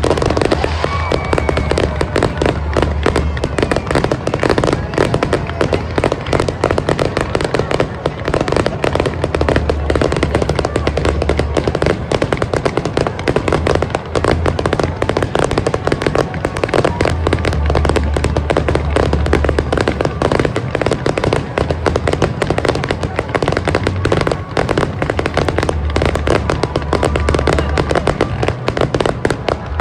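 A fireworks display in a rapid, continuous barrage of bursts and crackling. Music plays over it.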